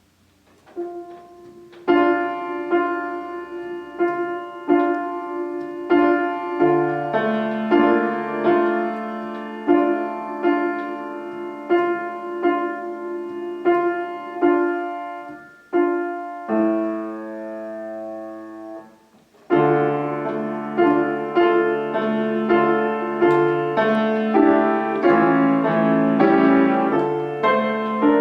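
Solo piano playing: steadily repeated struck notes that die away, a held chord about two-thirds of the way through, then a faster, fuller passage.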